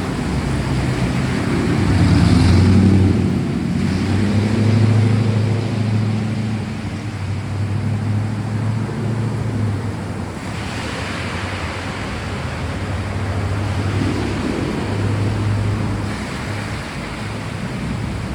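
Steady rain with thunder rolling underneath in long low rumbles that swell and fade several times, loudest a few seconds in.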